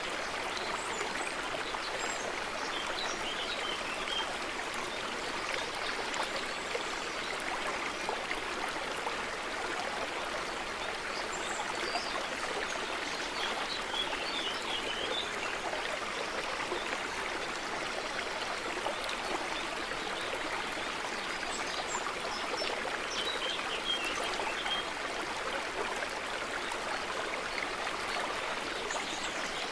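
A small stream running steadily over stones, a continuous babbling trickle, with faint high bird chirps here and there above it.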